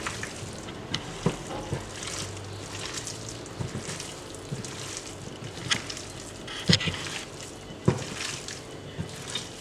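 Hands squishing and massaging seasoned raw chicken pieces, a wet squelching with a few sharp clicks.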